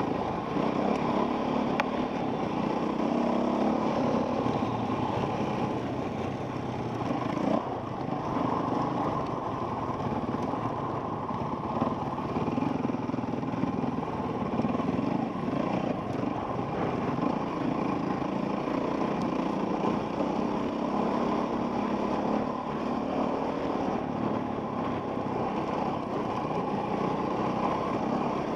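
Enduro dirt bike engine running on a trail ride as heard from a helmet camera, holding a fairly steady note with small throttle changes. A few sharp knocks come through about 2, 7 and 12 seconds in.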